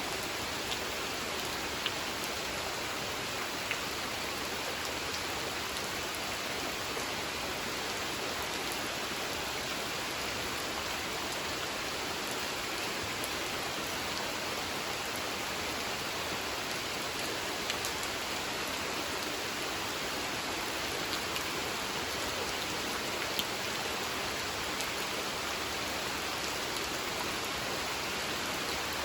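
Steady rain falling onto a pond: a dense, even hiss with a few louder single drops ticking out here and there.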